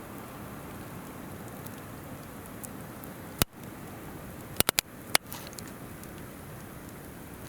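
Campfire crackling, with sharp pops from the burning wood: one about three and a half seconds in, a quick run of three a second later, then one more. Under it is the steady sound of a flowing river.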